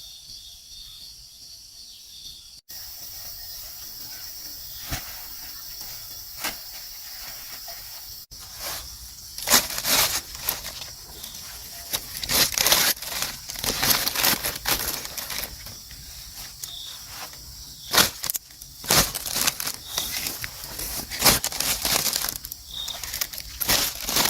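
A steady insect chorus with irregular rustling and crackling on top, the short noisy strokes coming thick and fast from about nine seconds in.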